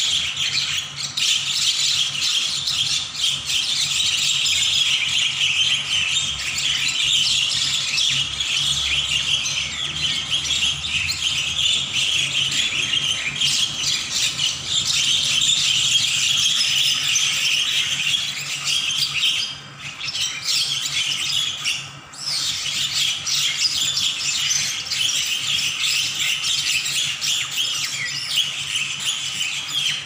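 Several birds giving harsh, continuous squawking and chattering calls as they fight, with two brief lulls about two-thirds of the way through.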